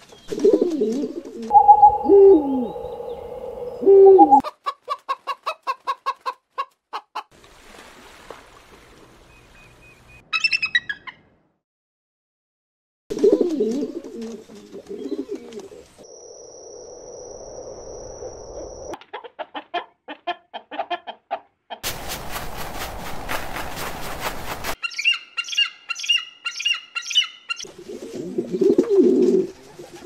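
A string of different bird calls cut one after another. Low dove-like cooing comes at the start, again about thirteen seconds in and near the end. Between them are rapid trains of short chirps, a steady high whistle lasting about three seconds, a few seconds of hiss, and quick repeated high chirps.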